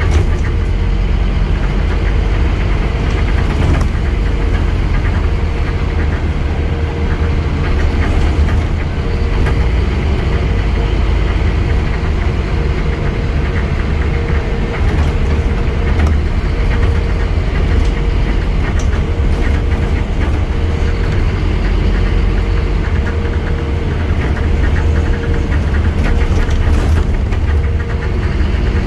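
Scania N230UD double-decker bus running, a steady low engine drone with a constant thin whine and light rattles.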